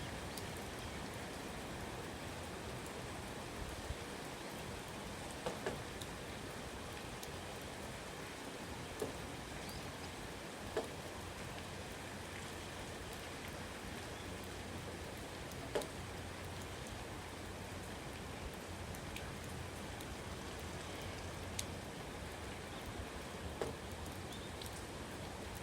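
Steady rain falling outdoors, an even hiss with occasional louder single drips landing close by.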